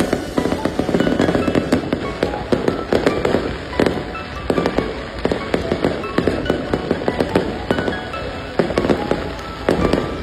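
Aerial fireworks display bursting continuously: dense, rapid bangs and crackling with no pause.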